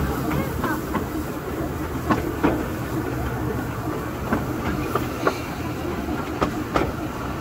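Narrow-gauge railway carriage running along the track, heard from on board: a steady rumble with irregular clicks and knocks from the wheels and running gear over the rails.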